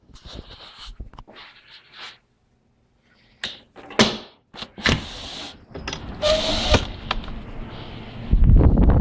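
Rustling and knocking, then a door opening with several loud clatters, followed about eight seconds in by blizzard wind buffeting the phone's microphone with a loud low rumble.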